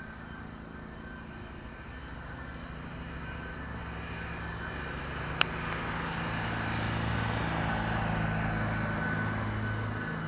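Jet engines of an Airbus A320neo airliner on approach to land: a steady whine over a low hum, growing louder as the aircraft comes nearer. A single sharp click about five seconds in.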